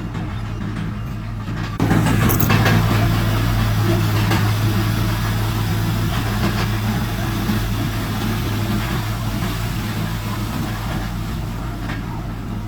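Heavy diesel engine of earthmoving machinery running steadily with a low hum. It gets suddenly louder about two seconds in, then eases off gradually.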